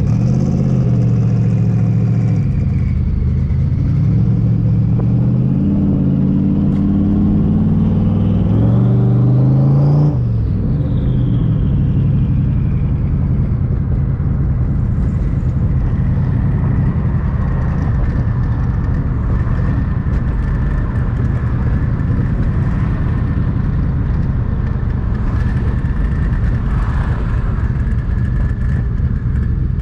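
Twin-turbo Terminator Cobra's 4.6-litre V8 pulling from inside the car, its pitch climbing in stages for about ten seconds with a high whine that rises and then falls away as it lets off. It then settles to a steady drone while cruising.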